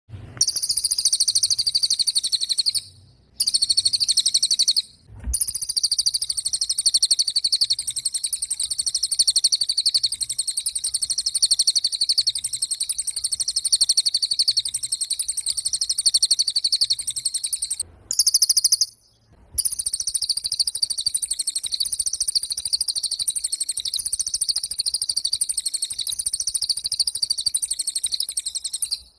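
Cililin bird singing gacor: long runs of very rapid, high-pitched trilling notes, broken by a few short pauses.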